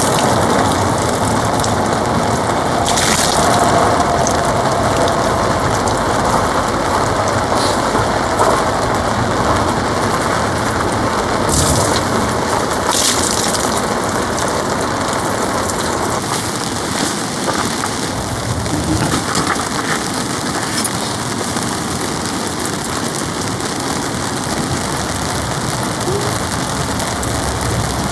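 Heavy rain hitting a polycotton tarp, a steady dense patter, with a few brief sharper hits about three seconds in and again around twelve and thirteen seconds.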